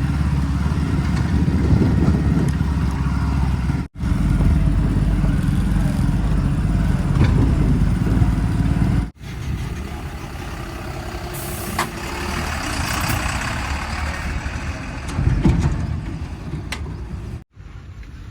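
Heavy diesel machinery engines running under load, heard across several abruptly cut shots, with a short hiss about 11.5 s in.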